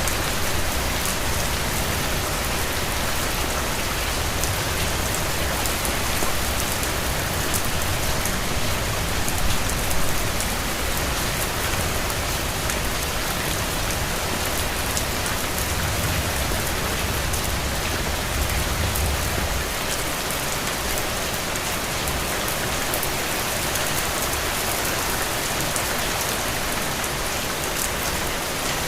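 Steady rain falling on a road, a dense even patter with scattered individual drop ticks. A low rumble swells briefly past the middle and fades.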